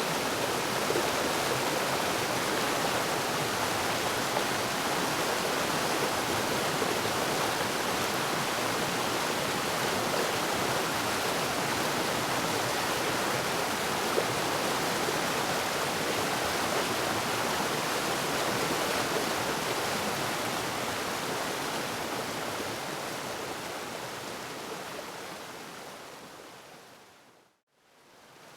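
Waterfall rushing steadily, an even roar of falling water. Near the end it fades out to a moment of silence and then fades back in.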